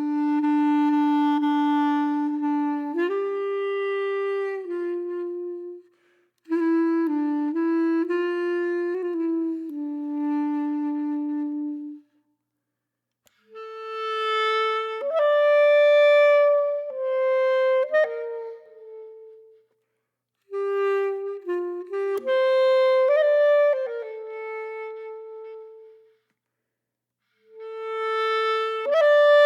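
Slow, calm melody on a solo woodwind, clarinet-like, playing phrases of long held notes with short silent breaks between them.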